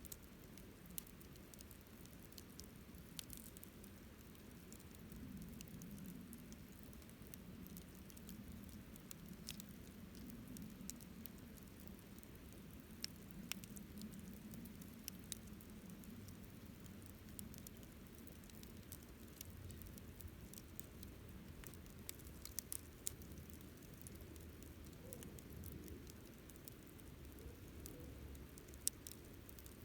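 Wood campfire burning quietly, with scattered sharp crackles and pops over a soft low rush of flame. The loudest pop comes near the end.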